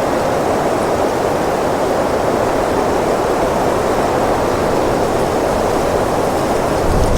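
Wind blowing steadily, an even rushing hiss; near the end a low rumble comes in as a gust buffets the microphone.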